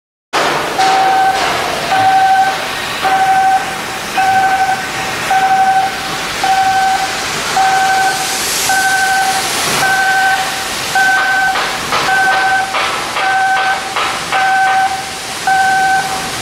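An electronic warning beeper sounds a single steady pitch, about half a second on and half a second off, roughly once a second. It plays over background worksite noise, with a few light clicks or knocks in the second half.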